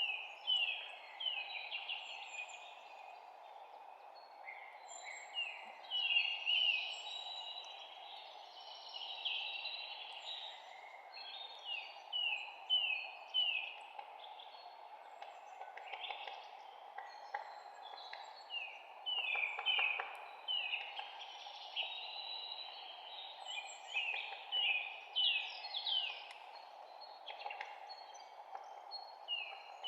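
Several songbirds chirping and singing, in quick series of short falling notes, over a steady low background hiss.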